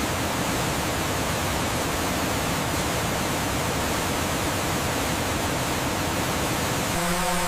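A steady, even rushing noise with no rhythm or change, like water or wind. A short pitched hum joins it near the end.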